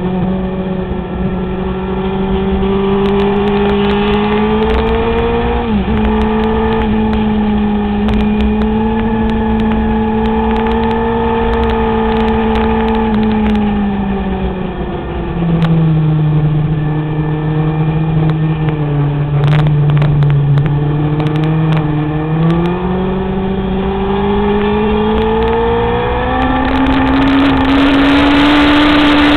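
Sport motorcycle engine running hard at high revs, heard onboard over steady wind rush. Its pitch holds high with a brief dip about six seconds in, drops lower about halfway through, then climbs again near the end.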